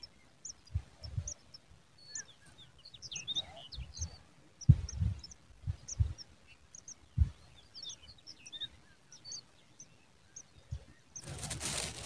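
Many short, high bird chirps scattered throughout, with a few low thumps about 5 and 7 seconds in. A loud rush of noise sets in near the end.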